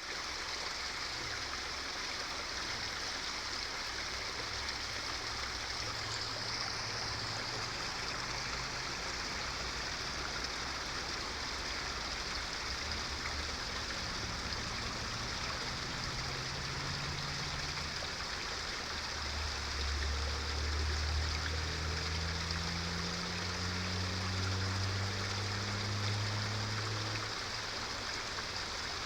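Waterfall cascading: a steady, even rush of falling water. From about halfway through, a low engine drone joins it and rises slowly in pitch, then stops shortly before the end.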